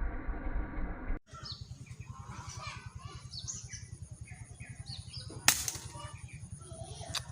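Small birds chirping, and about two-thirds of the way through a single sharp crack, an air rifle shot, with a softer click near the end.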